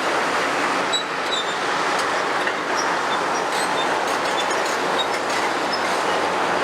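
Heavy demolition machinery working: a steady grinding, rumbling noise with scattered brief high metallic squeaks.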